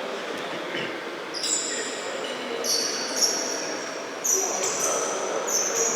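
Shoes squeaking on an indoor court floor as futsal players run and turn: several short high squeaks in quick clusters over the steady murmur of voices in the sports hall.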